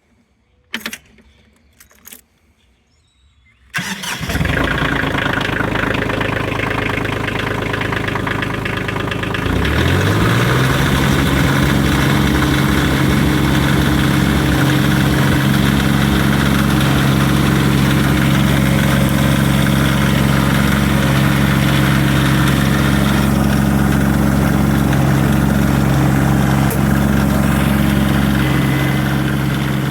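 A few clicks, then the Kioti CX2510 tractor's three-cylinder diesel engine starts about four seconds in. Some six seconds later it picks up speed and settles into a steady run. This is the engine's first run after a fresh oil and filter change.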